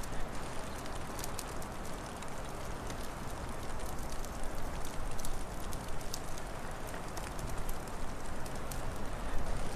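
Wood fire crackling, with scattered sharp pops and snaps over a steady rushing background.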